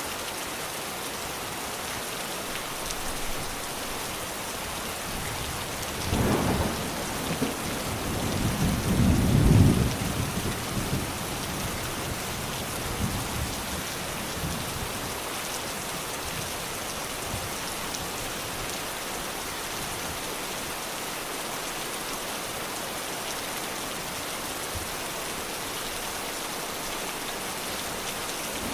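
Steady rain hissing on surfaces, with rolls of thunder rumbling low about six seconds in and again, louder, around eight to ten seconds in.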